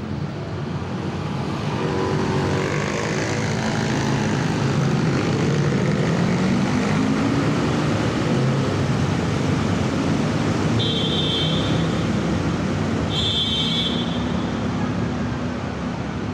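Many motorbikes and scooters pulling away together from a busy intersection: their engines rev and rise in pitch as they accelerate, over steady traffic noise. Two short high-pitched tones sound in the second half, about two seconds apart.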